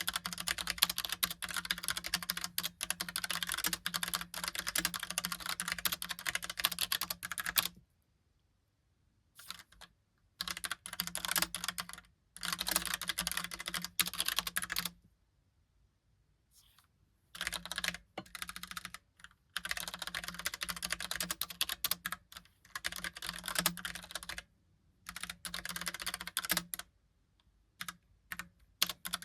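Typing on a Logitech POP Keys typewriter-style mechanical keyboard: rapid key clacks in runs of several seconds, broken by short pauses of a second or two.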